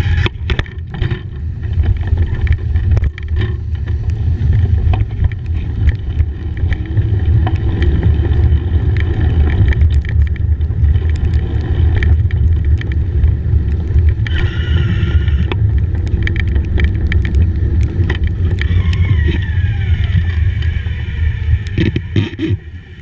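Ride noise from a bicycle on wet pavement in the rain: a heavy, steady rumble of wind and vibration on the microphone, broken by clicks and rattles from bumps. A brief falling whine comes about three quarters of the way through.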